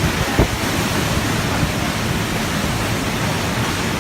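Typhoon wind and driving rain: a loud, steady rushing noise, with one brief thump just after the start.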